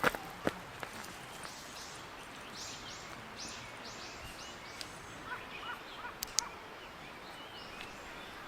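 Wild birds calling: a run of about seven quick repeated high notes, then scattered lower chirps. A sharp click or knock sounds right at the start, and two more come about two-thirds of the way through.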